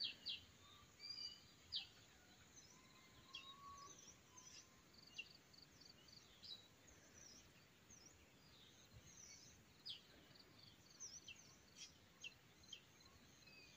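Faint, scattered short chirps and calls of several wild birds at a forest edge, coming every second or so.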